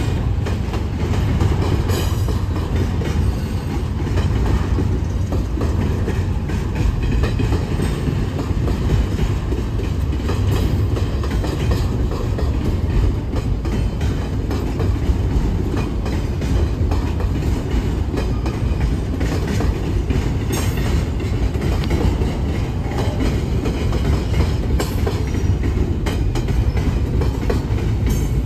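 Cars of a BNSF double-stack container train rolling past: a steady low rumble of steel wheels on rail, with a faint click now and then.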